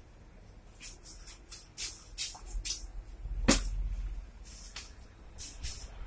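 Small birds chirping, a run of short high-pitched calls in quick succession, with one louder sharp click about three and a half seconds in over a low rumble.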